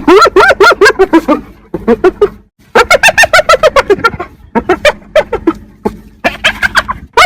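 Spotted hyena giggling: about five bouts of rapid, high, staccato notes, each note rising and falling in pitch, with short pauses between bouts.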